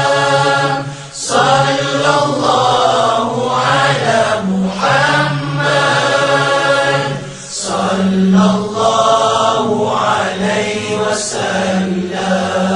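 Arabic selawat, a devotional chant blessing the Prophet Muhammad, sung by several voices in long drawn-out melodic phrases, with brief breaks about a second in and at about seven and a half seconds.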